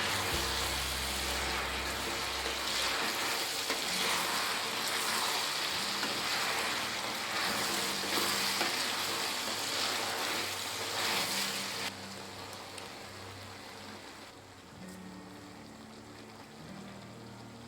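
Food frying in hot oil in a pan, a steady crackling sizzle that turns quieter about twelve seconds in.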